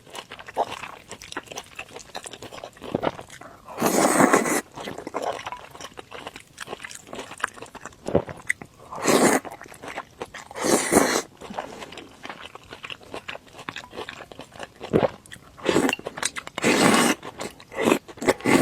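A person eating crunchy food: about six loud crunching bites spread through the stretch, with quieter chewing and mouth clicks between them.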